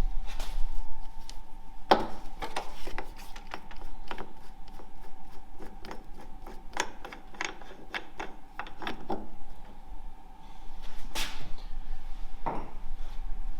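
Irregular clicks, knocks and metallic clatter of hand tools and parts as a car's oil cooler is unbolted and lifted out of the engine bay, over a faint steady hum.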